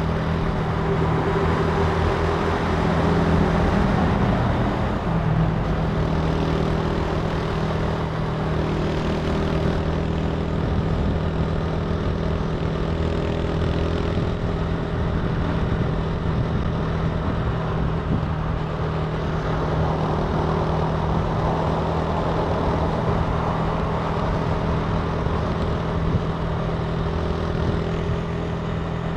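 Italika TC300 motorcycle engine running at a steady pitch while riding, with wind and road noise rushing over it.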